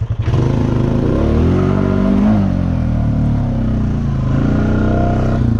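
Honda Rancher 420 ATV's single-cylinder engine accelerating under throttle, its pitch climbing to a peak about two seconds in and falling back, then rising again near the end.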